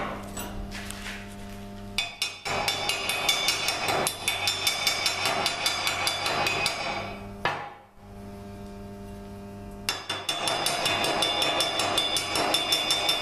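Rapid, even metal-on-metal tapping, about five strikes a second with a ringing tone, like light hammering on metal. It starts about two seconds in, stops suddenly near the middle, and picks up again near the end. A steady low hum fills the pause.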